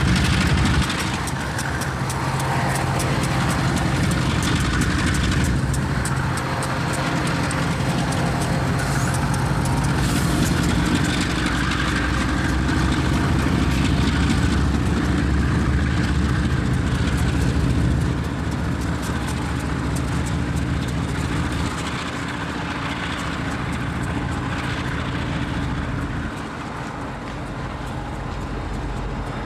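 A heavy engine running steadily under a constant rushing noise. The level drops a little in steps in the second half.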